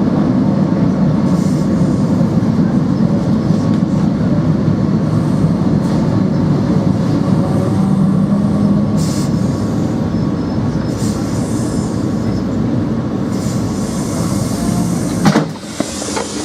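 SNCB/NMBS AM80 'Break' electric multiple unit running, a steady low hum of motor and running gear with a faint whine and a few light clicks. Near the end a sharp knock, after which the noise drops quieter.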